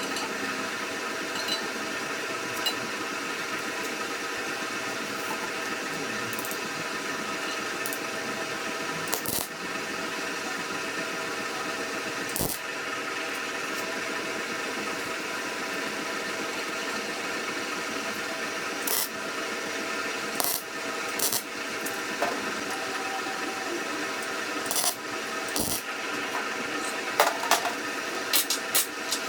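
Electric welding arc crackling steadily while teeth are tack-welded onto a steel drilling core barrel, with scattered sharp pops and spatter clicks, most of them near the end.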